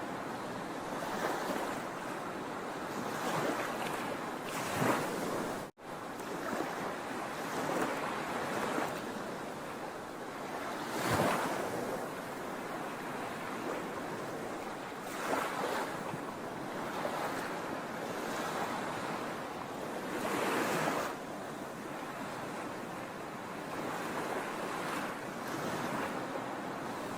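Sea waves washing onto a shore: a continuous surf hiss that swells as each wave breaks, every few seconds. A split-second dropout to silence about six seconds in.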